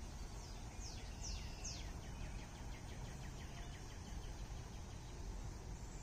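A songbird sings a series of quick notes that each sweep sharply down in pitch, loudest in the first two seconds and then trailing into a fainter rapid run, over a steady low outdoor background rumble.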